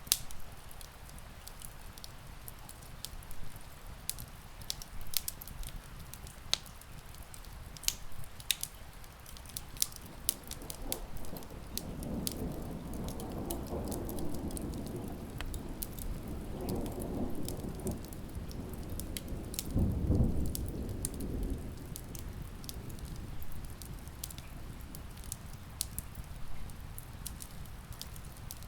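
Wood fire crackling with sharp pops over steady rain, while a rolling rumble of distant thunder swells up about ten seconds in, peaks around two-thirds of the way through, and fades.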